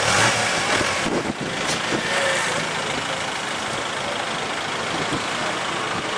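A motor vehicle engine running steadily, louder around the first second, then settling to an even idle.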